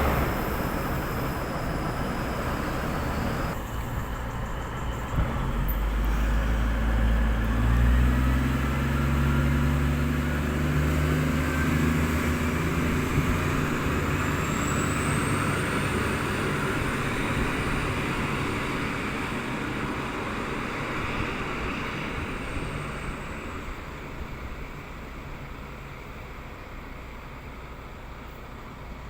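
V/Line diesel train's engines running as it moves through the station. The low engine note swells about six seconds in and fades away over the last several seconds, with a thin high whine through the middle.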